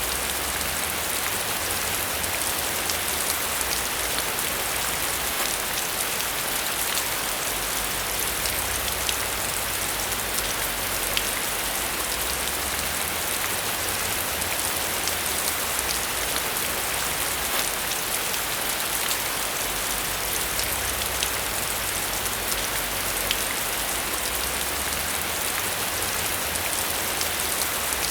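Steady rain falling, a dense even hiss with fine drop patter and a faint low rumble underneath.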